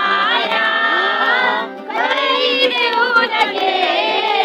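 A song with singing voices over music, the melody gliding and held, briefly dipping about two seconds in.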